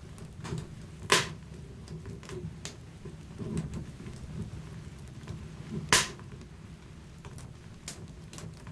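Wood fire burning in a fireplace: a steady low rumble of the flames with scattered small crackles, and two loud sharp pops, about a second in and again about six seconds in.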